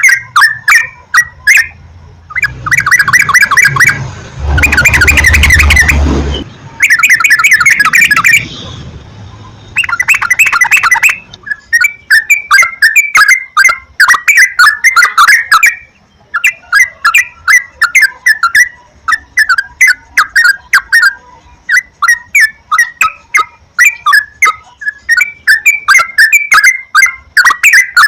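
Yellow-vented bulbul (trucukan) singing: quick runs of short, bubbly chirps repeated over and over. It breaks into dense chattering bursts in the first ten seconds, with a low rumble under one of them about five seconds in.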